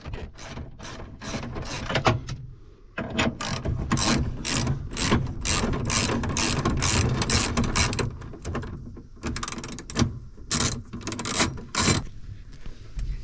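Ratchet wrench clicking in fast runs as the nuts holding up a truck's steering column are backed off, with one long unbroken run in the middle.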